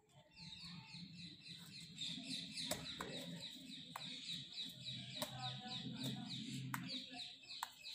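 A bird calling in a long run of quick, high, falling chirps, several a second, with a low hum underneath. A few sharp taps come in between, about three and five seconds in.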